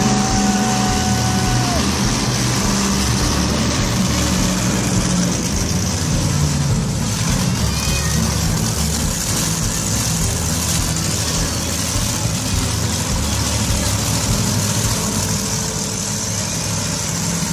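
Monster truck engine running loud, revving up and down over and over.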